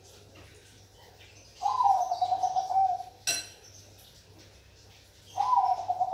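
Zebra dove (perkutut) singing: two rapid, stuttering cooing phrases, each opening with a short rise and then held on one pitch. The second starts near the end. Between them is a single sharp click.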